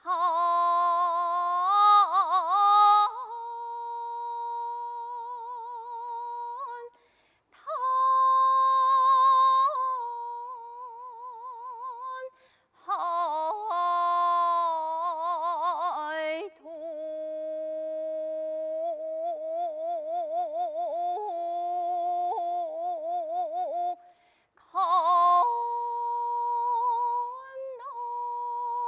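A woman singing jeongga, Korean classical lyric song, solo. She holds long notes with a wide, slow vibrato, in four phrases broken by short breaths.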